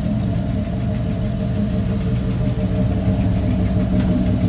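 Gasoline pickup truck engine idling steadily, with no revving.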